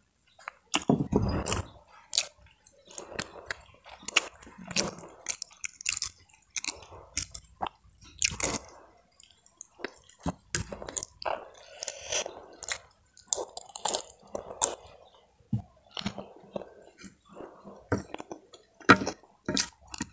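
A person chewing a mouthful of pelecing kangkung (water spinach in chilli sauce) close to the microphone, with irregular wet mouth clicks and smacks and an occasional crunch.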